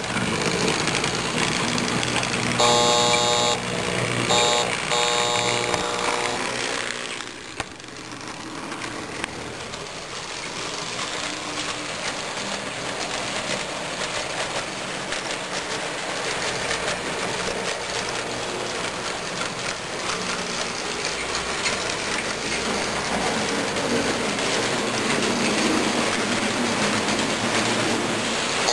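Marx toy train running around its track with a steady rumble, and its horn sounding several short blasts a few seconds in.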